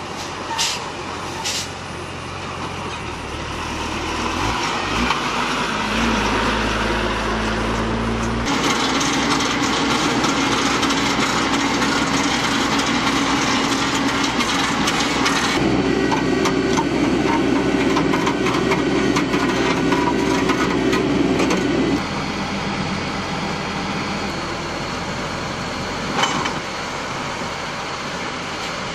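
Heavy earthmoving machinery running, its diesel engine note shifting up and down several times, with a few sharp knocks near the start and again near the end.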